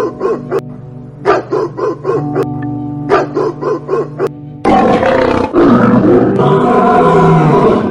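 A small dog barking in quick runs of four or five sharp barks, then, about four and a half seconds in, a lion roaring loudly in two long, rough roars, the second the longer. Steady background music plays underneath throughout.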